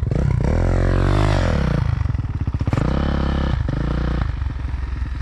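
Dirt bike engine revving hard under load while climbing a snowy slope. The pitch rises and falls twice, then settles lower.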